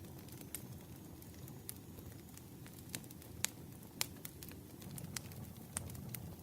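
Wood campfire crackling: a low steady rush with irregular sharp pops, the loudest about halfway through.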